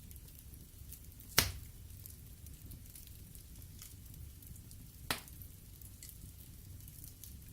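Wood fire burning in a fireplace: a low rumble of flames with scattered faint crackles and two sharp pops, one about a second and a half in and a softer one about five seconds in.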